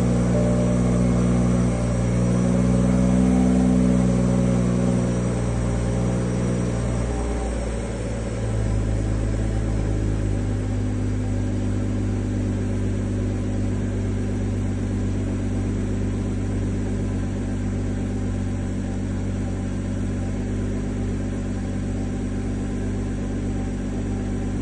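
Car engine idling after a cold start. The raised idle drops, with a brief dip about seven to eight seconds in, then settles to a lower, steady idle.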